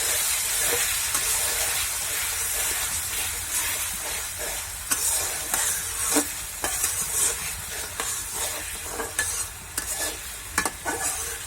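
Onion and ginger-garlic paste frying in hot oil in a kadai, with a steady sizzle while being stirred. Scrapes and clicks of the stirring grow more frequent from about halfway through.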